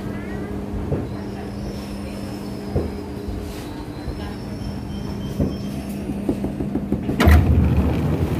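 Ex-Tokyo Metro 5000 series electric commuter train coming to a stop at a platform, its steady hum under faint squeals and a few knocks. About seven seconds in, the doors open with a sudden loud rush and thump.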